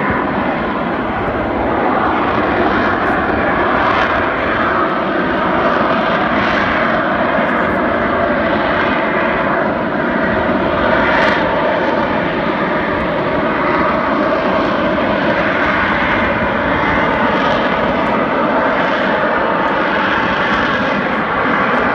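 Harrier jump jet's Pegasus turbofan engine running loudly and steadily, a dense jet noise that wavers slightly in pitch without breaking off.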